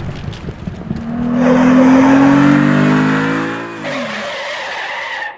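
Car engine revving, its pitch climbing for about two and a half seconds and then falling away, followed by a steady hiss that cuts off abruptly.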